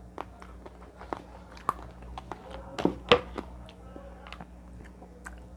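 Close-up eating sounds: a person chewing and biting a mouthful of fish and rice, with scattered sharp clicks and a louder click about three seconds in.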